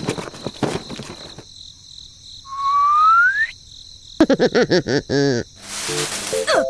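Cartoon-style sound effects: a rising whistle about two and a half seconds in, then a quick run of wavering chirps, then a short burst of hiss near the end.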